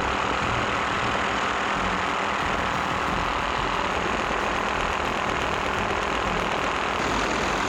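Steady aircraft engine noise, an unbroken rumble and hiss from an aerial filming flight.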